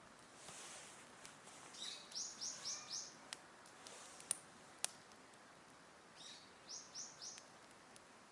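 A bird calling in two short runs of rapid high notes, with a few sharp crackles from a wood campfire between them.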